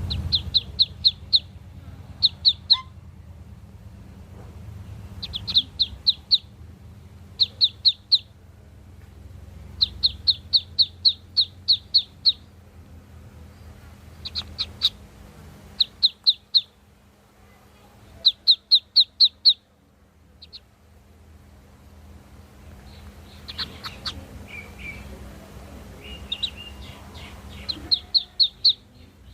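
Newly hatched ducklings peeping: runs of short, high, quick peeps, several a second, broken by pauses of a second or two. A steady low hum runs underneath.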